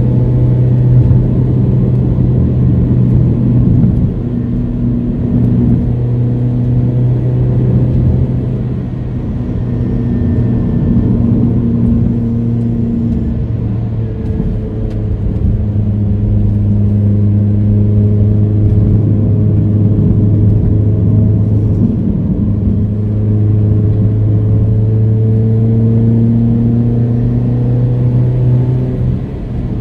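Proton Inspira 1.8's four-cylinder engine pulling steadily at about 3,500 rpm on part throttle, heard from inside the cabin with tyre and road noise beneath. Its pitch sags and picks up again slightly a few times.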